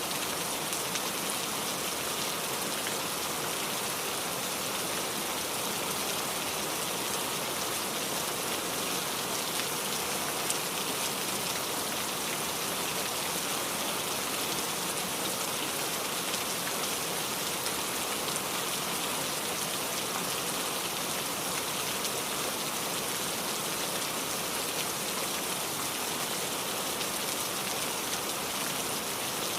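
Steady rain falling on a surface, a constant hiss with many small drop patters.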